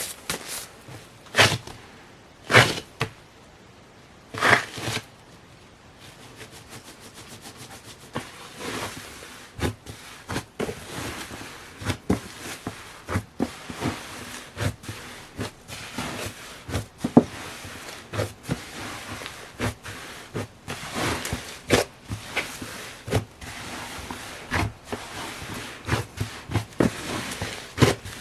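Hands kneading and squishing slime: a few separate wet pops in the first few seconds, then, about six seconds in, a dense irregular run of sticky clicks and crackles.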